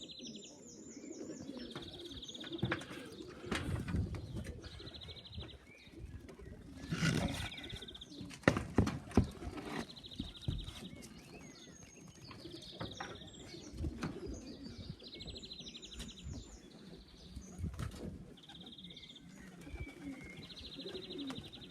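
Pigeons cooing, with repeated high, rapid chirping calls of a second or two each and a few sharp knocks around the middle.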